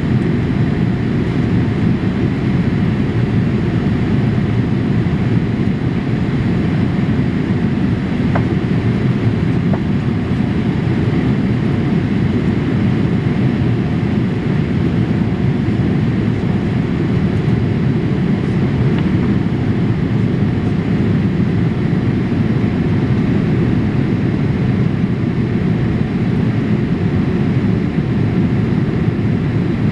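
Steady cabin noise inside a Boeing 787-8 airliner in flight: a constant low roar of airflow and engines heard from a window seat.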